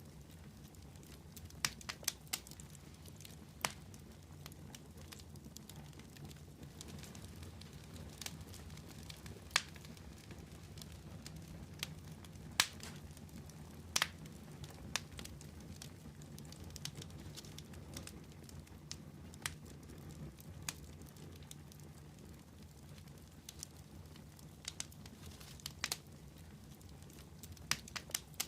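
Wood fire crackling: irregular sharp pops and snaps from the burning wood, a few louder than the rest, over a steady low rumble of the flames.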